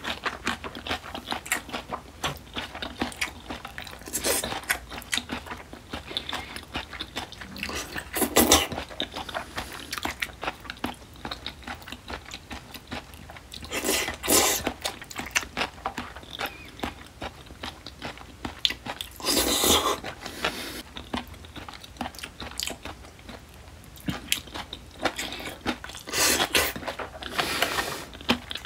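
Close-up chewing of mouthfuls of smoked duck and spicy seasoned raw oysters: a steady run of small wet mouth clicks and smacks, with a few louder bursts every several seconds.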